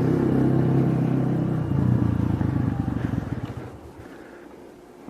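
A motor vehicle engine running with a low, even pulsing, fading away about three and a half seconds in.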